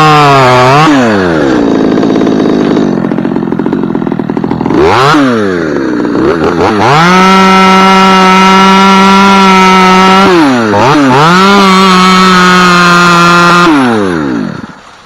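Chainsaw cutting a limb of an ash tree, running at high revs with brief drops in pitch between pushes, sagging lower for a couple of seconds early on as it works in the wood. The throttle is released about a second before the end and the saw winds down.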